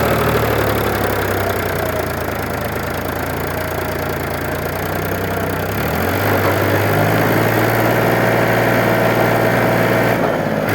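Mahindra tractor's diesel engine running steadily, its note shifting about six seconds in.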